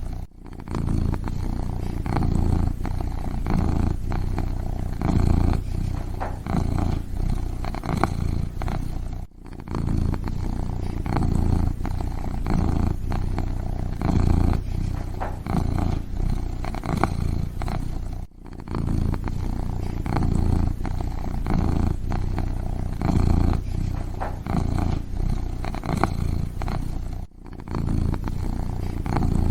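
Kitten purring steadily, a close, low pulsing rumble, with a brief dropout about every nine seconds.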